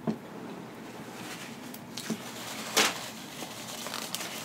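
Close-miked eating sounds: a person chewing food with the mouth closed, with a few short sharp mouth clicks or smacks, the sharpest nearly three seconds in.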